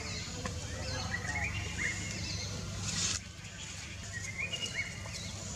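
Outdoor ambience: short chirping bird calls repeating every second or so over a steady low rumble. The background changes abruptly about three seconds in.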